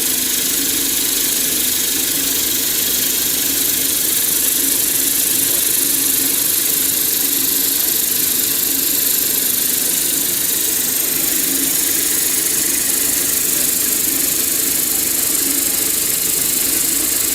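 Keensaw KCS-120B CNC circular saw for solid round steel billets running steadily: an unbroken machine noise with a strong high hiss over a lower hum.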